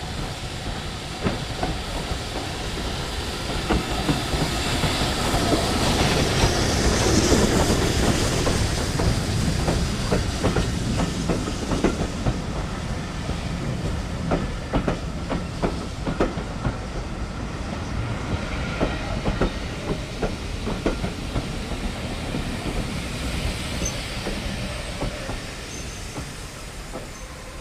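A train passing, its wheels clicking repeatedly over the rail joints. The sound swells to its loudest about seven seconds in, then slowly fades away.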